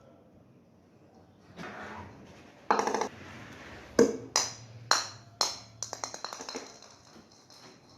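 Light plastic knocks and clatter from a toy bowling set's pins and ball: a short clatter, then four sharp knocks about half a second apart, trailing off into smaller ticks.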